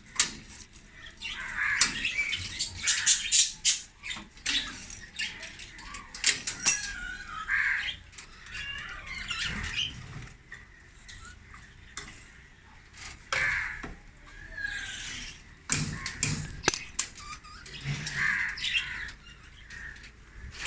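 A flock of budgerigars in an aviary chattering and squawking, with wings fluttering, among scattered sharp clicks and knocks.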